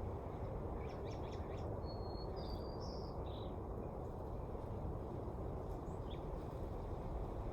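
Wind blowing steadily, a low rushing noise, with a few short bird chirps about a second in and a couple more near the end.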